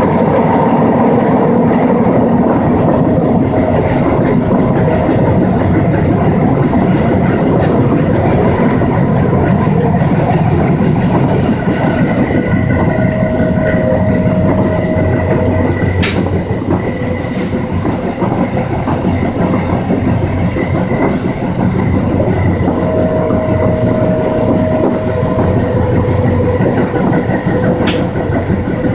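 Tokyo Metro through-service subway train running at speed, heard from inside the passenger car: a loud, steady rumble of wheels on rail with a few high squealing tones that come and go, and one sharp click a little past halfway.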